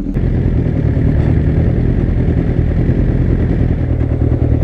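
Motorcycle engine idling at a standstill: a steady low rumble with an even pulse.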